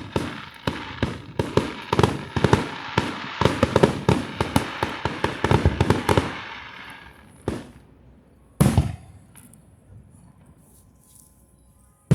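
Fireworks display: a rapid volley of bangs and crackling for the first six seconds or so, dying away, then a single loud boom about eight and a half seconds in.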